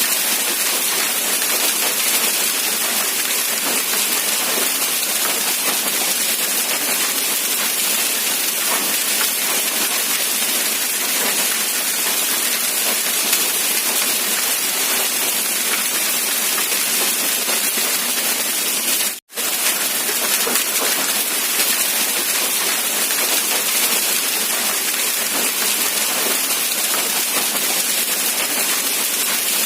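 Rain falling steadily, a dense even hiss of drops on surfaces. It cuts out abruptly for an instant about two-thirds of the way through, then resumes unchanged.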